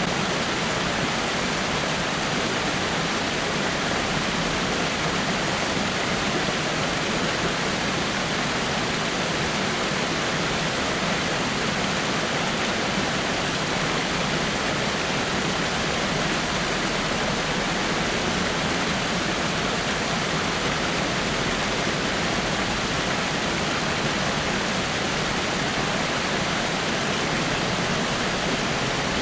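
Water falling over rocks in a small waterfall: a steady, even rush of splashing water.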